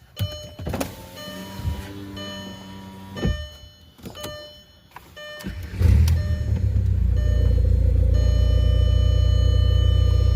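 A few clicks and knocks, then about six seconds in the Mk4 VW Golf's 1.9-litre four-cylinder turbodiesel cranks and catches on a cold start. It settles at once into a steady, loud, low-pitched diesel idle.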